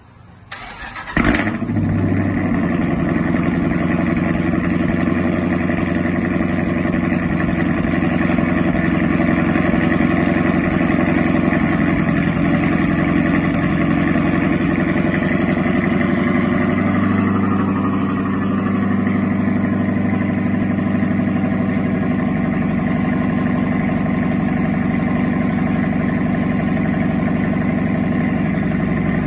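ProCharger-supercharged Dodge Challenger Hemi V8 cold-starting: a short crank, then it catches with a sharp rev flare about a second in and settles into a steady, loud fast idle. The idle steps down slightly just past halfway.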